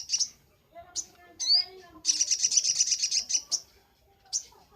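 Sogok ontong (brown-throated sunbird) singing: sharp high chirps and down-slurred notes, then a rapid, buzzing trill about two seconds in that lasts about a second and a half, followed by more short chirps.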